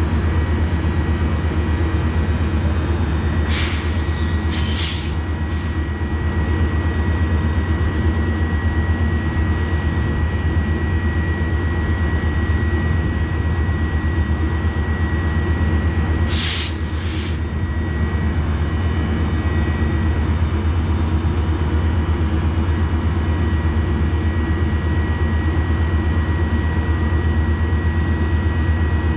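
Metrolink commuter train running with a steady low drone and a thin high whine. Short hisses come in two pairs, about three and a half seconds in and again about sixteen seconds in.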